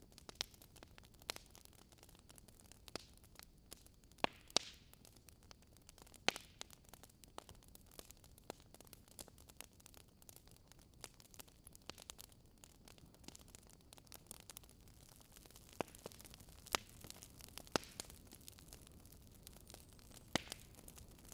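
Campfire crackling: irregular sharp pops and snaps of burning wood over a faint hiss, with a handful of louder pops scattered through.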